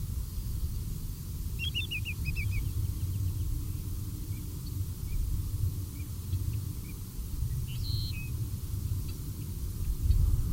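Steady low rumble with a few bird calls over it: a quick run of about six high, slightly falling notes about two seconds in, and one short call later on.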